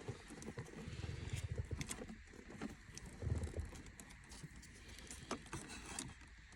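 Light handling noises: scattered small clicks and taps, with soft low thumps about a second in and again a little past three seconds.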